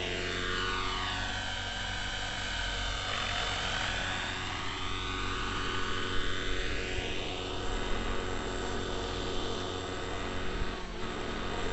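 Neo Caliber 50 RC helicopter's glow-fuel engine and rotors running in flight, the whine's pitch sinking, then climbing around the middle, then sinking again near the end as it manoeuvres.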